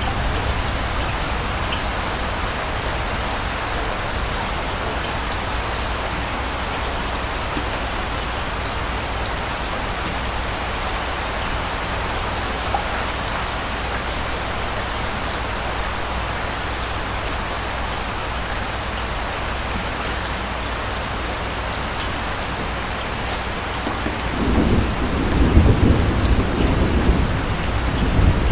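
Steady rain falling, an even hiss throughout. Near the end a low rumble of distant thunder rolls in and grows louder.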